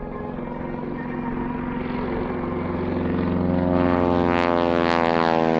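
Propeller biplane's piston engine growing steadily louder as the aircraft approaches, its drone dipping slightly in pitch in the second half as it comes past.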